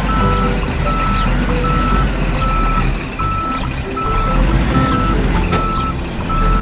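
Vehicle reversing alarm beeping steadily, about nine evenly spaced single-tone beeps, over a low rumble and background music.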